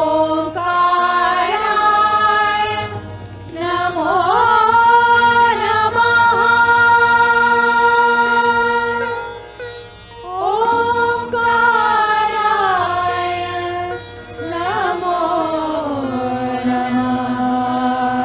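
Indian devotional singing: a voice holds long notes that slide into and out of pitch, in phrases of a few seconds, over a steady low drone.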